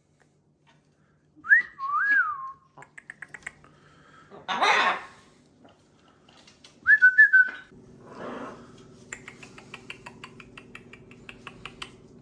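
Pet parrots vocalising: two short gliding whistles, the first rising then dipping and rising again, with a harsh squawk between them. A run of quick clicks follows over a steady low hum in the second half.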